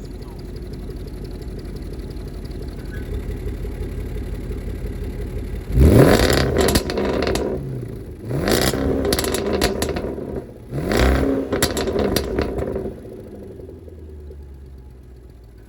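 Range Rover Sport SVR's supercharged 5.0 V8 with an Urban aftermarket exhaust, idling and then revved hard three times about six, eight and a half and eleven seconds in. Each rev rises and falls with a crackling rasp before it settles back to idle.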